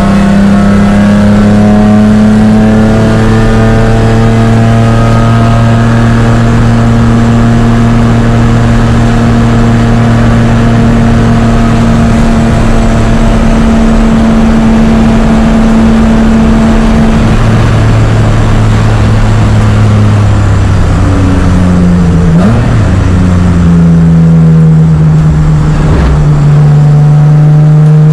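BMW E36 race car engine heard loud from inside the cockpit, pulling hard with its note climbing slowly and steadily. About three-quarters of the way through, the revs drop, with a quick blip of the throttle as on braking and a downshift, then it pulls again at a lower steady note.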